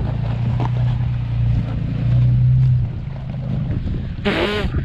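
Off-road truck engine running with a low, steady hum, swelling as it revs for under a second about two seconds in, with wind noise on the microphone. A brief voice cuts in near the end.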